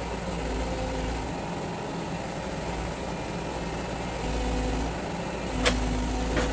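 Excavator's diesel engine running steadily, its pitch shifting now and then as the hydraulics take load, with a sharp knock near the end.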